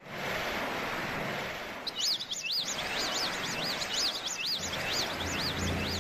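Birds calling in quick, repeated high arching chirps over a steady rushing noise, as the opening effect of a karaoke backing track. A low tone of the backing music comes in near the end.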